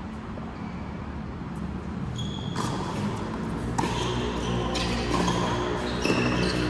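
Shoes squeaking on an indoor court floor during a racket-sport rally, short squeals beginning about two and a half seconds in, with a few sharp hits, over a steady low hum.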